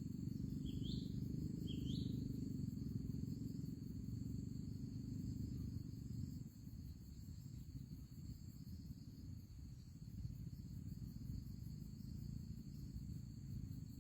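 Steady high drone of insects, with two short rising bird chirps about a second in, over a low rumble.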